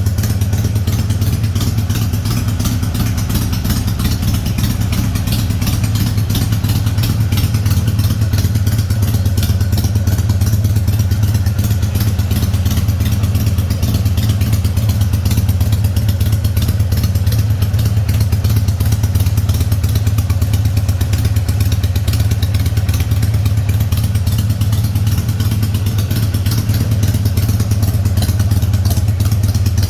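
2007 Harley-Davidson Sportster 883R's air-cooled V-twin, fitted with Screaming Eagle parts, idling steadily and loudly with no revving.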